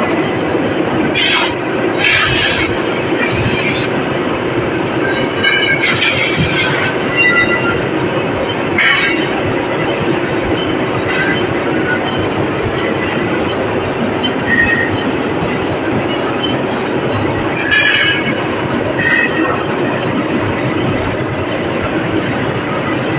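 CNC machine running in a machine shop: a steady, dense mechanical drone, with short high-pitched squeals breaking in every few seconds.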